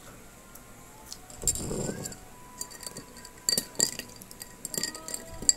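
Glassware and dishes clinking: a run of sharp, ringing taps in the second half. There is a louder muffled rustle about a second and a half in.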